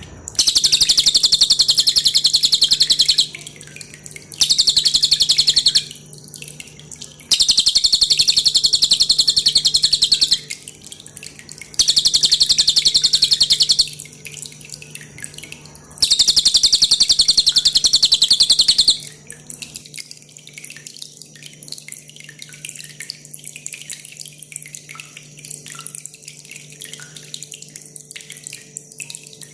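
Cililin bird singing five loud, high-pitched, rapid trills, each lasting about two to three seconds with short pauses between them. Water drips and trickles throughout, and after about 19 seconds only the dripping water is heard.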